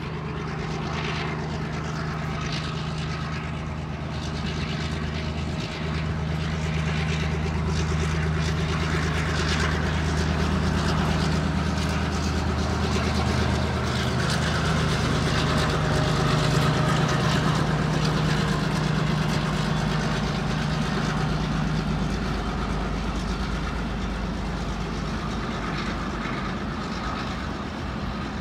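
Train running: a steady low hum under a broad rushing noise that swells through the middle and eases off near the end, with the hum fading out in the last few seconds.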